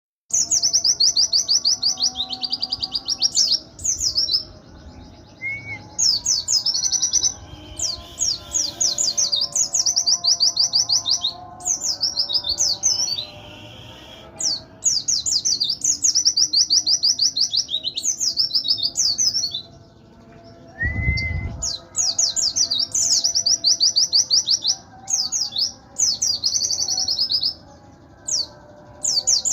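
Pleci (white-eye) singing in rapid, high trilling bursts of a second or two, one after another with short gaps between: the fast, full 'nembak' song style. A low bump sounds about two-thirds of the way through.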